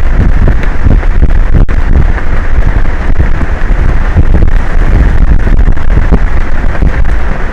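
Strong wind buffeting an outdoor microphone: a loud, continuous rumbling rush, heaviest in the bass, that flickers constantly with the gusts.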